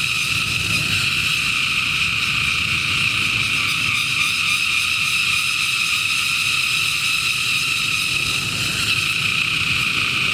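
Cicadas singing in a loud, steady, unbroken chorus.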